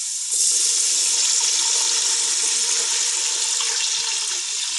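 Water poured in a steady stream into a pot of frying peas and onions, starting about a third of a second in and running on evenly.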